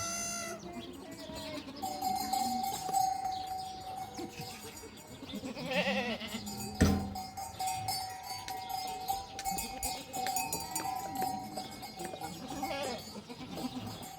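Sheep and goats bleating now and then, a few separate calls, over a steady ringing tone, with one sharp knock about seven seconds in.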